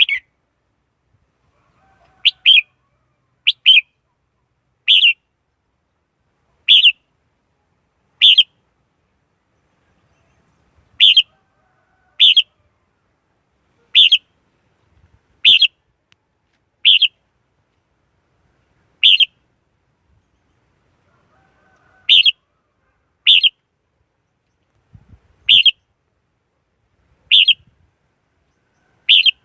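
Red-whiskered bulbul giving short, sharp call notes, one every second or two, some in quick pairs, with no background noise between them.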